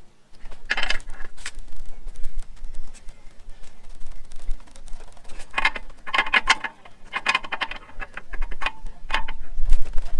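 Clinks, clicks and rattles of metal parts and tools being handled, in quick irregular clusters with brief pauses between.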